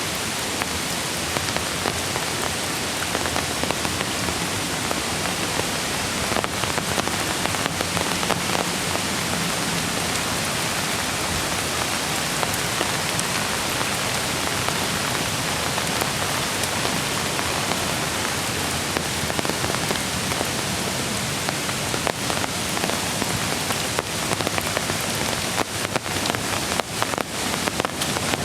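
Steady rush of rain and a flowing mountain creek, an even hiss of water with a few sharp ticks near the end.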